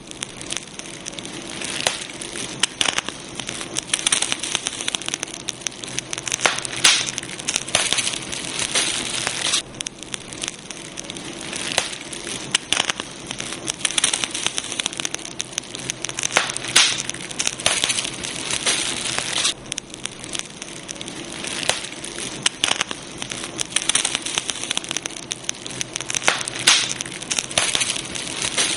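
Campfire burning: wood crackling with dense, irregular snaps and pops over a steady hiss. The crackle grows busier and then calmer every few seconds.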